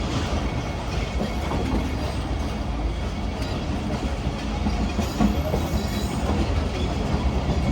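Passenger train running on the rails: a steady rumble of the wagons in motion.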